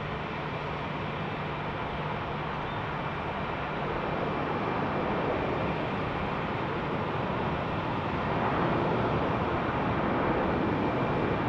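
Jet airliner engine noise heard from the ground: a steady rushing sound with a faint whine, growing louder about four seconds in and again around eight seconds as the aircraft moves past.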